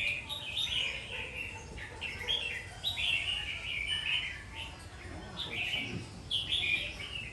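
Red-whiskered bulbul singing a series of short, quick warbled phrases with brief pauses between them.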